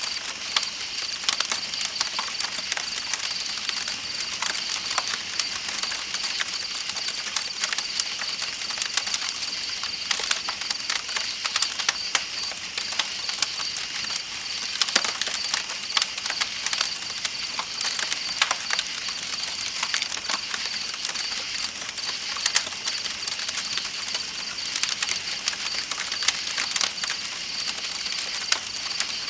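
Campfire crackling with frequent irregular sharp pops, over a steady hiss of flowing river water and a continuous high chirping drone of night insects.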